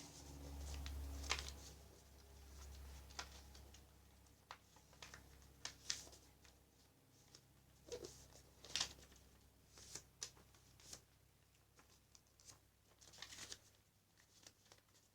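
A sheet of paper being handled and folded: scattered soft rustles and sharp creasing clicks, with a faint low hum in the first few seconds.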